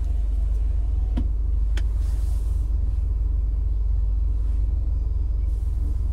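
Car engine idling, a steady low rumble heard from inside the cabin, with two short clicks about half a second apart a little over a second in.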